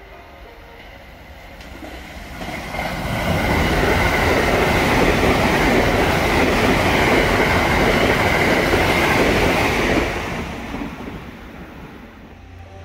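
JR West Thunderbird limited express electric train running through the station at speed without stopping. The rolling and wheel noise builds from about two seconds in, stays loud for about six seconds as the cars go by, then fades away.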